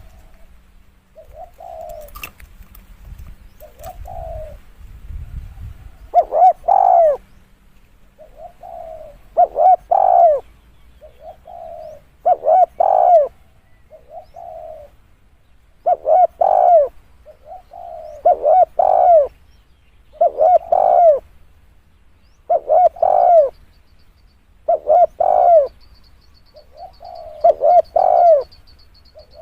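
Spotted dove singing its cooing song. Each phrase is a soft coo followed by a loud two-part coo, and the phrase repeats about every two to three seconds.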